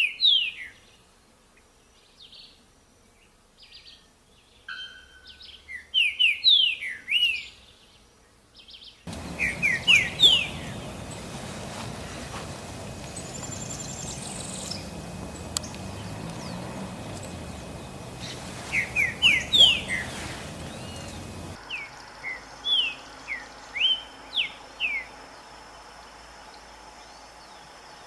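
Green-winged saltator (trinca-ferro) singing short phrases of quick, clear whistled notes, each phrase a second or two long with pauses of several seconds between. In the middle stretch the song sits over a steady hiss of background noise that starts and stops abruptly.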